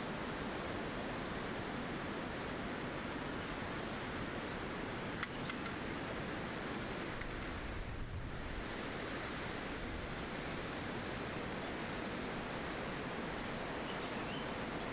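Steady rushing of wind through forest trees, an even hiss. There is one sharp click about five seconds in and a brief low rumble about eight seconds in.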